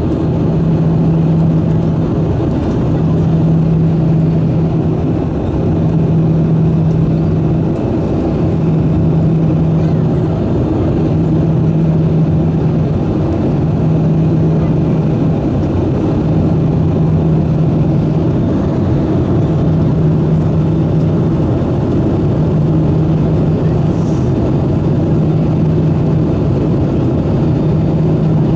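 Steady engine and airflow noise of an Airbus A320 with CFM engines during approach, with a low hum that pulses on and off about every two seconds.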